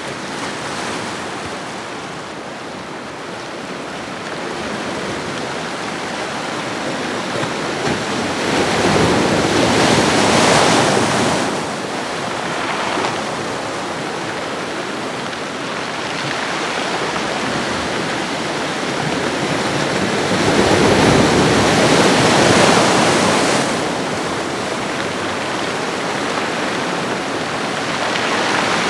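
Ocean waves washing onto a shore: a steady rush of surf that swells twice as waves break and then falls back.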